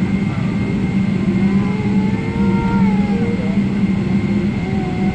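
Steady cabin noise inside a Boeing 777 airliner: a loud low hum with a thin steady whine above it.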